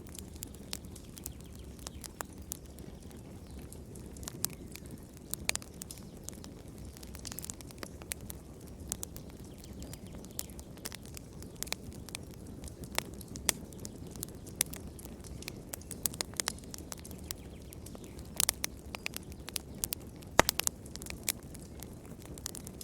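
Wood fire burning in a fireplace: a steady low rumble of flames with irregular sharp crackles and pops, a few louder pops in the later part.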